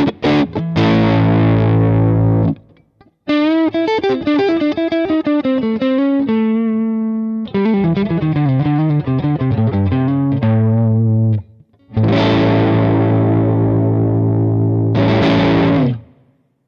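Electric guitar played through a Korg AX3G multi-effects unit on its AC15 amp model, a Vox AC15 emulation, with overdrive. Held chords, then two quick single-note runs, then a long ringing chord that cuts off near the end.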